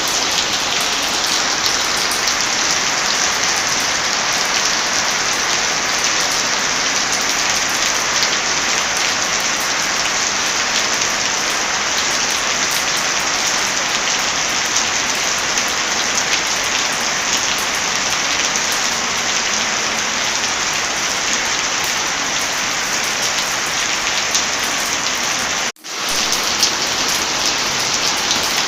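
Heavy rain falling steadily, a dense even hiss with fine drop ticks. Near the end it cuts out for a split second and comes straight back.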